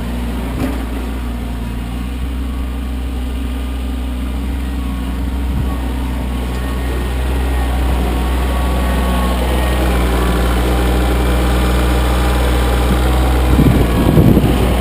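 Kioti CK25 compact tractor's three-cylinder diesel engine running steadily, a little louder from about halfway through, with a few knocks near the end.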